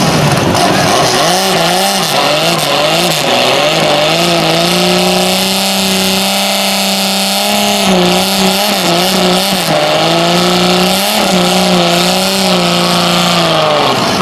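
Dodge Polara engine revving: the pitch climbs and wavers, is held high and fairly steady, drops briefly about ten seconds in, then is held again before falling at the end.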